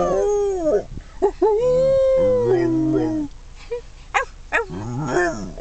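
Dog howling: several drawn-out, wavering howls, one held for about a second and a half, with shorter howls near the end.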